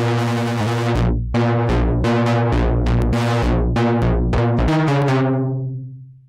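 Moog Matriarch analogue synthesizer playing a bass-heavy run of about a dozen short notes. Each note starts bright and quickly turns duller, and the last one dies away near the end.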